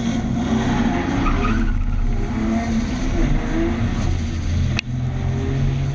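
Drift car's Toyota 1.5JZ straight-six engine revving up and down through a lap, with tyre skid noise. There is a brief sharp click and dropout about five seconds in.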